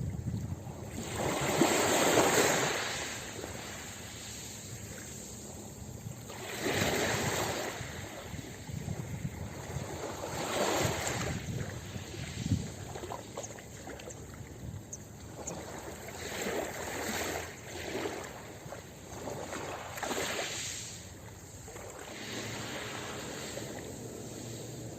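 Ocean waves breaking on a beach and washing in and out, rising and falling in surges a few seconds apart, the biggest one near the start.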